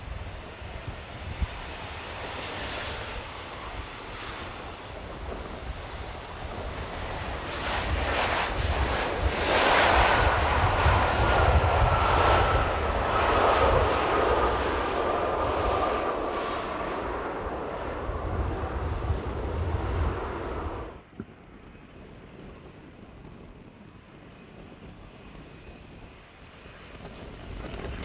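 Embraer E195 airliner's jet engines passing close on landing approach, growing louder, then a whine that falls in pitch as it goes by, with wind rumbling on the microphone. About 21 seconds in the sound cuts off sharply to a quieter, distant jet, which grows again near the end.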